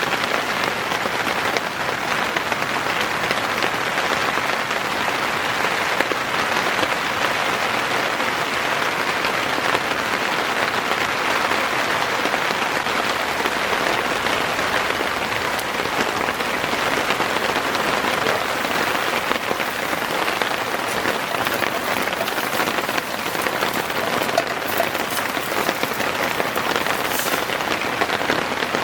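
Heavy rain falling in a dense, steady patter.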